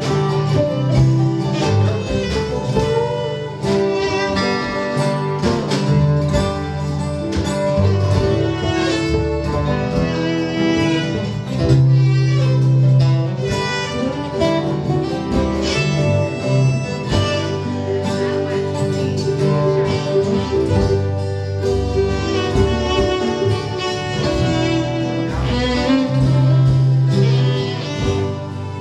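A string band plays an instrumental passage with no singing: fiddle over guitar, with strong low bass notes underneath.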